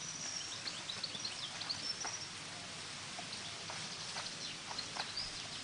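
Small birds chirping: many short, high chirps and quick up-and-down whistles, thickest in the first couple of seconds, over a steady background hiss with a few faint knocks.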